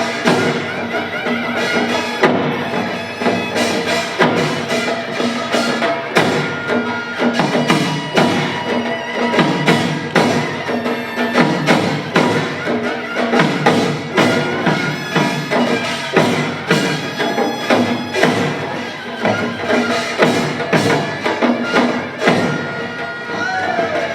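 Korean pungmul percussion ensemble playing a fast, dense rhythm: drums and small gongs struck in rapid, driving strokes without a break.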